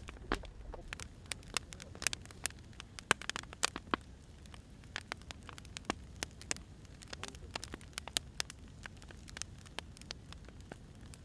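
Wood fire crackling: irregular sharp pops and snaps from burning firewood over a steady low rumble.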